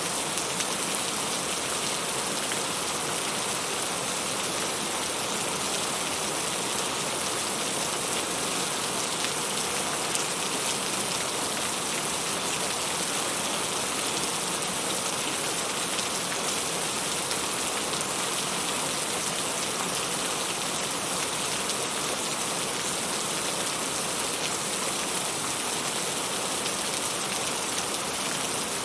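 Heavy rain falling steadily and loudly, a dense even hiss of countless drops hitting a surface.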